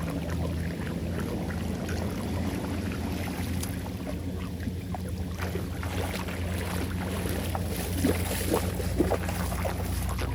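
Floodwater rushing and gurgling down a cleared drain: a steady low rumble with scattered splashes, which come most often a little past the middle. Wind on the microphone.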